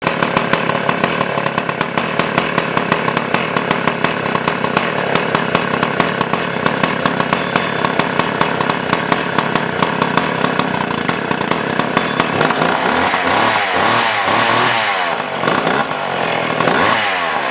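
A McCulloch Pro Mac 850 chainsaw's 82 cc two-stroke engine runs at idle with a steady pulsing beat. About twelve seconds in it is revved up and down several times.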